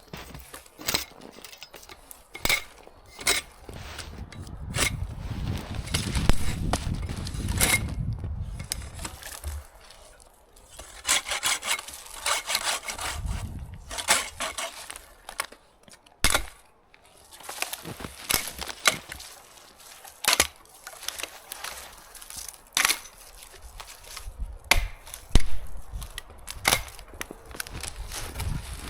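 Dry wood being broken and worked by hand for firewood: irregular sharp cracks and snaps, with stretches of rasping strokes between them.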